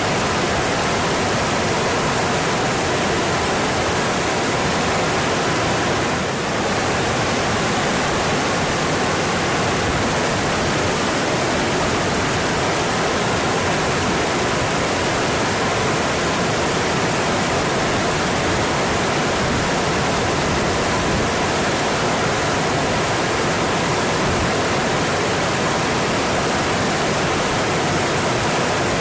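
Mountain stream rushing over rocks, a steady full hiss of water.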